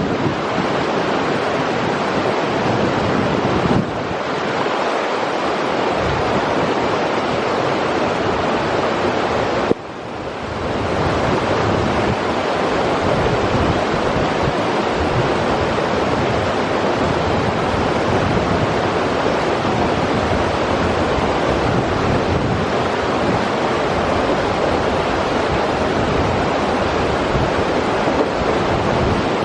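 River water rushing steadily in a continuous, even roar, dipping briefly about four and ten seconds in.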